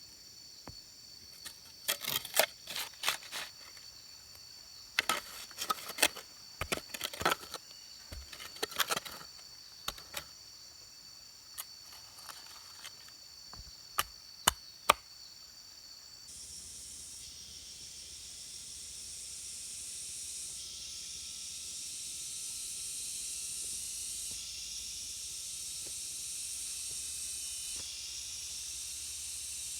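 Insects chirring steadily, with a series of sharp knocks and taps in clusters during the first half. About halfway the chirring stops and a steady high hiss takes over.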